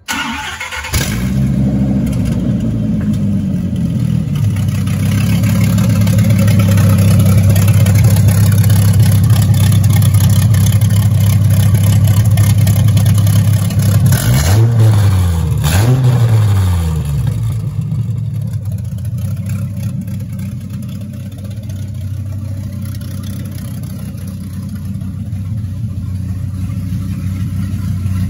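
1993 Dodge Viper RT/10's 8.0-litre V10 cold-started on open headers with the side exhausts removed: it cranks briefly, catches about a second in and settles into a loud, steady fast idle. About halfway through it is blipped twice, the pitch rising and falling each time, then it drops back to a slightly quieter idle.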